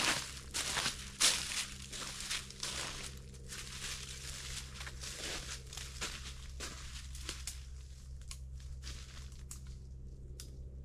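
Irregular crunching and crinkling, dense and louder for the first few seconds, then thinning to scattered faint crackles. A steady low hum runs underneath.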